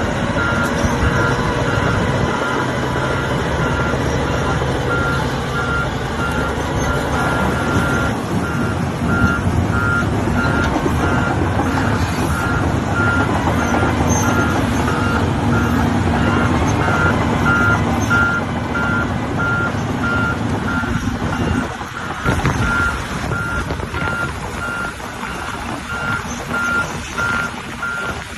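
Volvo excavator's diesel engine running, with its high-pitched travel/reversing alarm sounding over it: a steady tone at first, then beeping at a regular pace from about eight seconds in.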